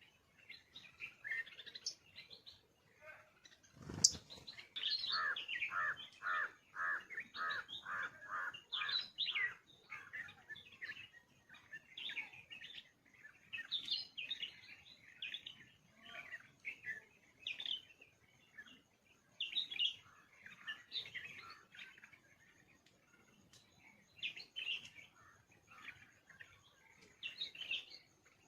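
Several birds chirping and calling, including one bird repeating a short note about twice a second for several seconds. A single sharp click comes about four seconds in.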